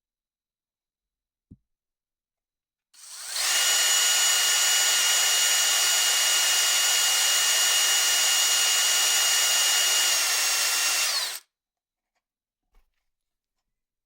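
Small handheld power tool, a drill or rotary-tool type, spinning at high speed with a steady high whine. It starts about three seconds in and runs for about eight seconds, then its pitch drops slightly before it stops.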